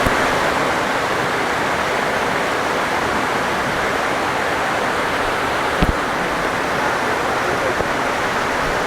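Heavy rain pouring down, a steady dense hiss of rain and running water, with one short knock just before six seconds in.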